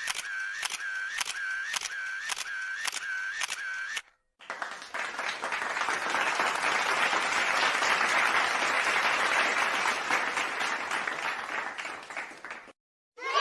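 Camera shutter sound effect clicking about twice a second for roughly four seconds, then after a short gap a crowd applauding for about eight seconds, swelling and then fading out.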